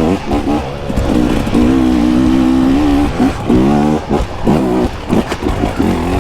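KTM dirt bike engine under way on the trail, revving up and down in repeated throttle blips, with the throttle held steady for a second or so in the middle.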